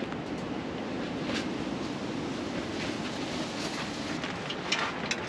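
Strong wind rushing steadily against a tent in a gale, with a few light clicks or rustles near the end.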